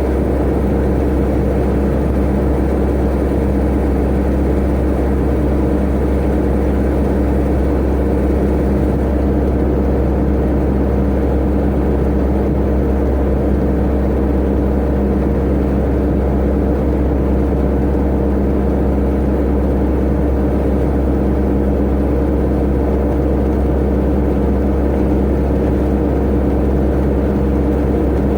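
Tata Ace mini truck's turbo engine running at a steady speed, with steady engine tones over road noise and no revving.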